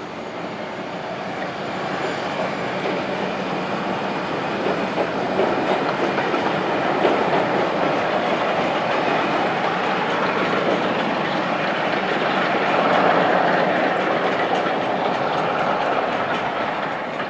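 A train running along the track, wheels clattering over the rail joints, getting louder to a peak about three quarters of the way through and then easing off.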